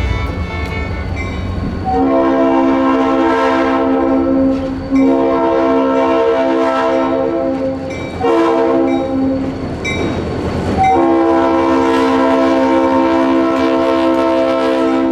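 Leslie RS3L three-chime air horn on an EMD GP30 diesel locomotive sounding the grade-crossing signal: long, long, short, long.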